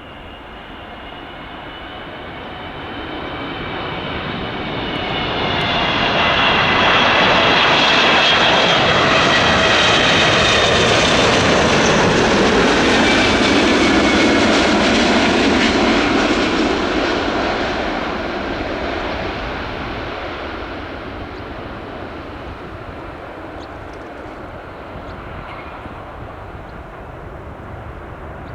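Boeing 777-200 twin-engine jet on landing approach passing close by. Its engine whine builds to a loud peak, with several high tones sliding slightly lower in pitch. A deeper rumble comes as it passes, about halfway through, and the sound then fades away over the last ten seconds.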